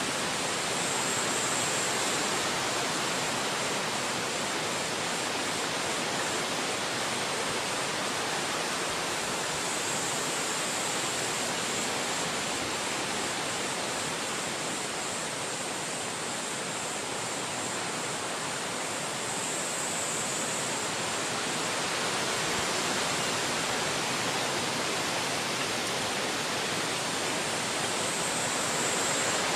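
Wind blowing steadily through forest trees: a continuous rushing that swells and eases slightly, with a faint high hiss that comes and goes about every ten seconds.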